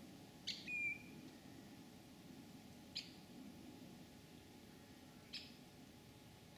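A bird calling: three short, sharp chirps about two and a half seconds apart, the first followed by a brief thin whistle, over a faint steady background.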